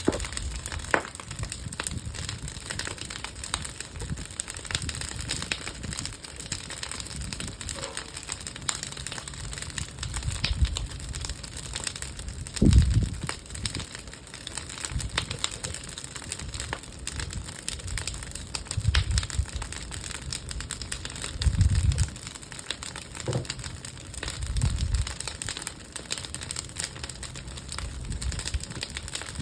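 Bonfire of old wooden pallets burning, crackling and popping steadily. Several low rumbles swell and fade through it, the loudest about thirteen seconds in.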